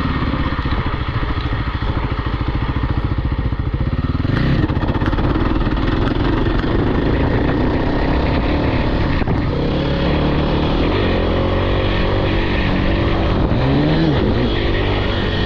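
Off-road vehicle engine running hard, with the pitch climbing about four seconds in and a quick rev up and back down near the end.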